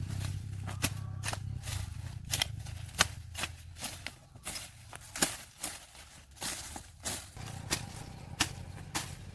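Irregular sharp clicks and knocks, about two a second, over a steady low hum.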